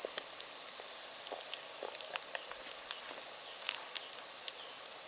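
Potato cubes and freshly added sliced red onion frying in oil and butter in a Trangia frying pan over a spirit burner: a steady light sizzle with scattered small pops and crackles.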